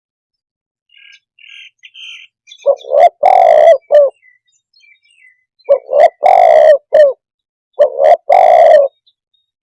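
Spotted dove cooing: three phrases, each a couple of short coos followed by a longer, drawn-out coo. Faint high chirps come about a second in.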